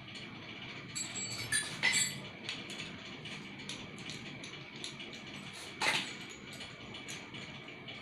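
Light metallic clinks and knocks of small water-pump parts being handled and set down: a cluster of clicks between one and two seconds in, and a sharper single knock about six seconds in.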